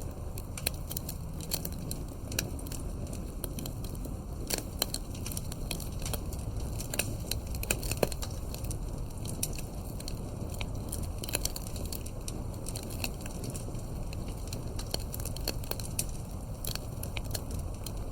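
Wood campfire crackling: irregular sharp snaps and pops, a few louder ones around the middle, over a low steady rumble.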